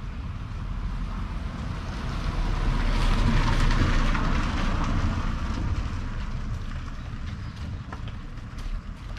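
Vehicle noise with wind rumbling on the microphone, typical of riding a motorbike: a dense rumble that swells louder about three seconds in and eases off again, with a few sharp clicks near the end.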